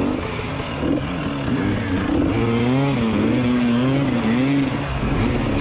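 Dirt bike engine revving up and down, its pitch rising and falling over and over.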